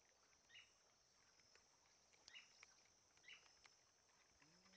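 Near silence: faint outdoor riverside ambience with a thin steady high hiss and three or four short faint bird chirps about a second apart.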